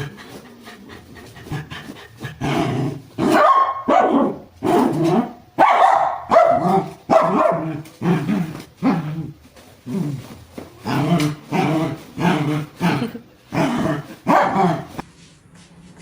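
A dog barking over and over, one or two short barks a second, starting a couple of seconds in and stopping shortly before the end.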